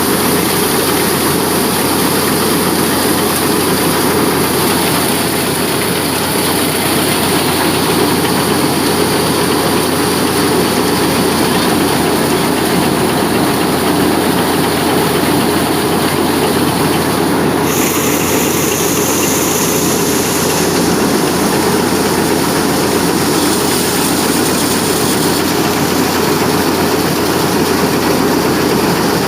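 Tractor-driven wheat thresher running steadily under the tractor's engine, a loud, continuous machine noise without a break.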